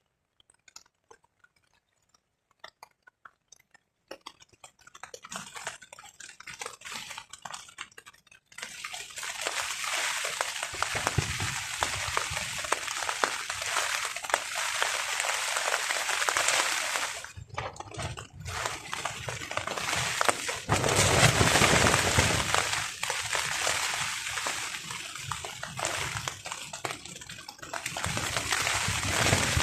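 Rain on a tarp: a few scattered drops, then heavy rain drumming that sets in suddenly about a third of the way in, with gusts of wind rumbling low that ease briefly past the middle and return stronger.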